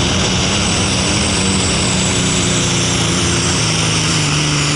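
Alcohol-burning super stock pulling tractor's engine running hard under load on a pull, its pitch dropping about three and a half seconds in. The announcer judges it is not running the way it can.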